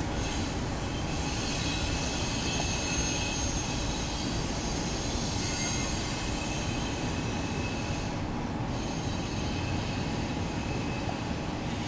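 Double-stack intermodal freight train rolling past: a steady rumble of wheels on rail, with thin high-pitched wheel squeal running over it.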